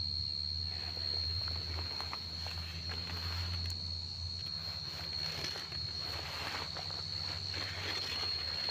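Field cricket singing a continuous, steady high-pitched trill, with scattered rustles and footsteps in the grass.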